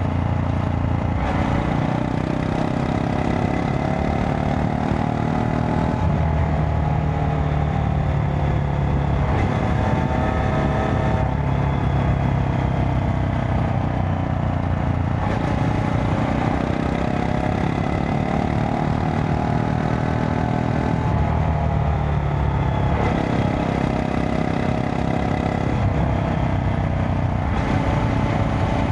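Honda Monkey 125's air-cooled single-cylinder four-stroke engine running under way, its revs rising and falling several times with throttle and gear changes.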